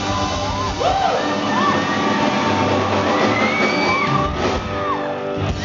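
Live band music in a hall, with a crowd of fans screaming and whooping over it in many short, high rising-and-falling cries.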